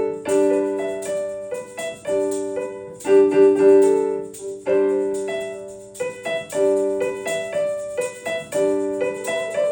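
Piano playing an instrumental interlude: chords struck in a repeating pattern, each one ringing and fading before the next.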